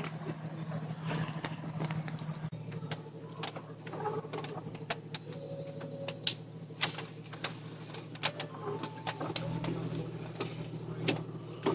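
A vehicle engine running steadily at low revs, heard as a low hum, with scattered short clicks and knocks over it.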